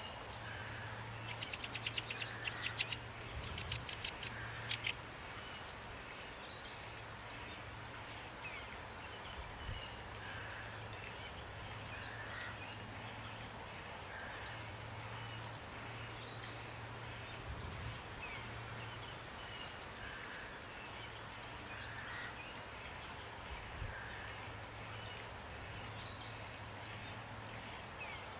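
Steady rain with small birds singing, repeated high chirps that fall quickly in pitch. About a second in, a rapid rattling trill runs for a few seconds and is the loudest sound.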